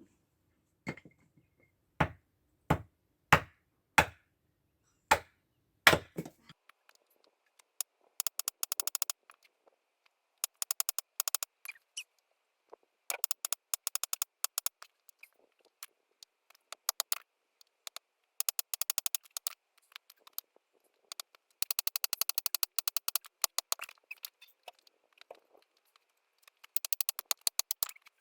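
Seven sharp blows of an axe splitting firewood, about one every half second to second, each with a short ring. They are followed by bursts of rapid, fine crackling clicks, each lasting about a second and recurring every few seconds.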